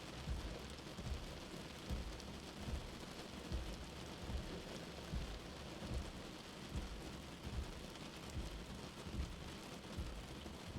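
Steady rain with a soft, low heartbeat thump repeating evenly, about one beat every 0.8 seconds.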